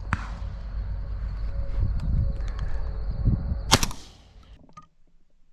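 Two shotgun shots at flying doves, the second, about three and a half seconds after the first, the louder and ringing out briefly.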